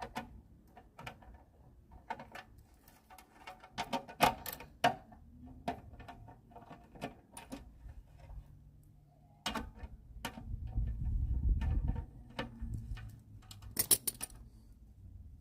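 Scattered light clicks and taps of tools and small metal parts being handled while a lawnmower carburetor is screwed back down. A low rumble runs for about three seconds past the middle.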